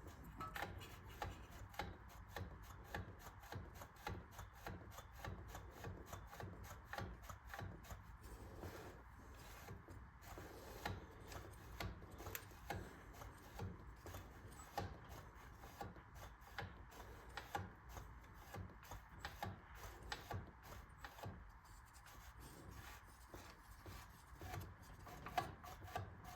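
Faint, irregular scraping and clicking as the flywheel of a seized Clinton 410 small engine is rocked back and forth by hand, working a rust-bound piston in its cylinder to free the engine so it will turn over.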